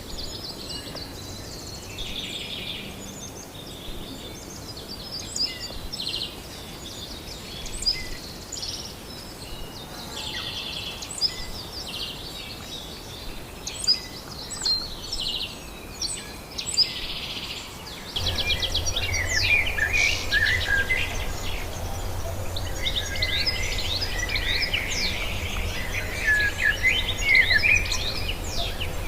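Wild birds chirping and calling: many short chirps and a few quick trills. About eighteen seconds in, a steady low hum starts under busier, louder chirping.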